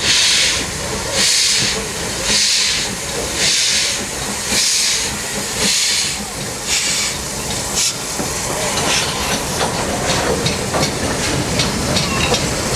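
Steam locomotive pulling away, its exhaust chuffing in loud hissing beats about one a second, which turn quicker and shorter from about eight seconds in as it gathers speed.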